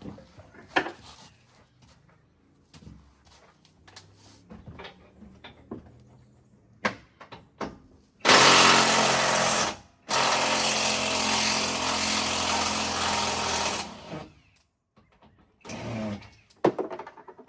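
Handheld power tool running in two bursts, one of about two seconds and then a longer one of about four seconds, most likely driving suspension bolts. Scattered light metal clinks of tools are heard before it and again near the end.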